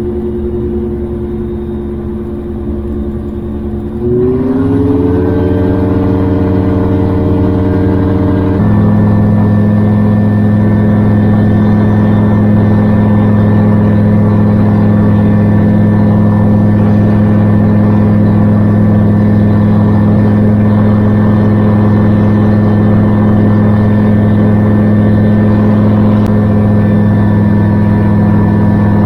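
Gyrocopter engine and pusher propeller running steadily in flight. It rises in pitch about four seconds in, then changes suddenly to a louder, lower steady drone about eight seconds in.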